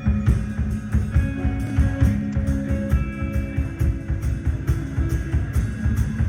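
Live rock band playing: held, distorted-sounding guitar and bass notes over a steady, fast drum beat.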